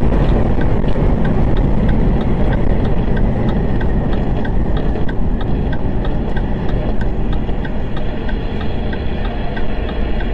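Heavy vehicle's engine and road noise, steady and loud, with a light ticking repeating about three times a second.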